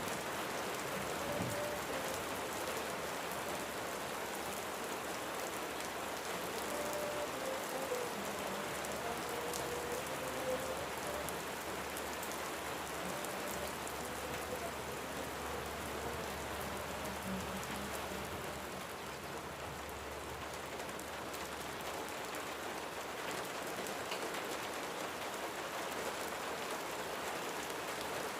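Steady rain falling, a continuous even patter.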